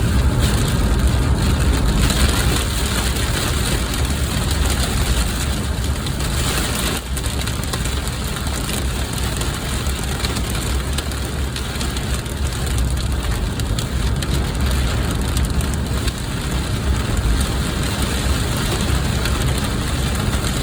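Heavy rain falling steadily on a car, over the car's constant low rumble.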